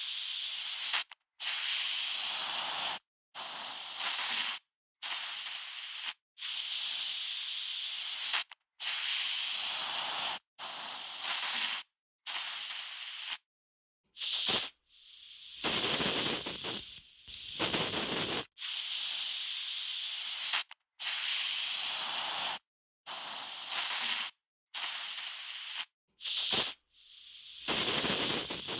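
Aerosol spray can spraying in repeated short hissing bursts, each lasting one to two seconds, with brief silences between them.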